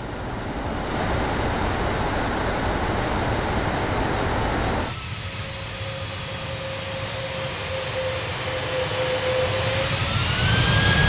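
Boeing 767-300 engines and airflow heard from inside the cabin during landing. A loud rushing noise drops away suddenly about five seconds in, leaving a steady engine whine, which rises in pitch and grows louder near the end as the engines spool up.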